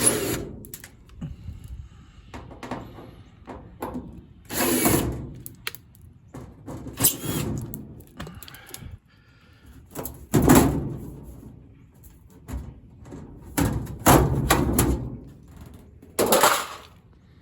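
Sheet-metal back panel of a top-load washer being unscrewed and worked off the cabinet: a series of separate knocks and rattles, several of them loud.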